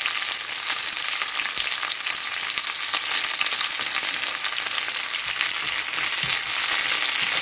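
Sliced onions with urad and chana dal sizzling steadily in hot oil in a nonstick pan, crackling evenly throughout. In the last few seconds a wooden spatula stirs and scrapes through them.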